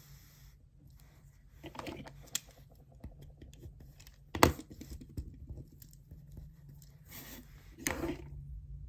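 Paper handling at a desk: short rustles and crinkles of paper, scattered light clicks, and one sharp knock about halfway through.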